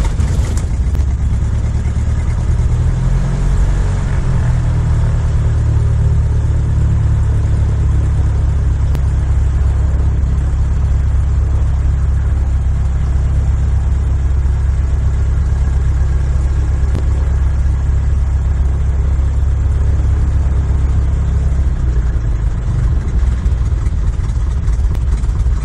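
Light-aircraft piston engine and propeller of a PA18 Super Cub running steadily just after a hot start.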